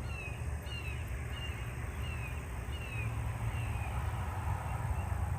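A bird calling a repeated series of short, downward-slurred notes, a little more than one a second, fading out near the end, over a steady low rumble on the microphone.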